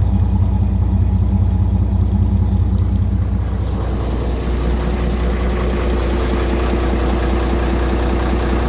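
FPT N67 six-cylinder marine diesel engine running steadily, with its Twin Disc gearbox. About halfway through its tone changes and it carries on at a new steady note.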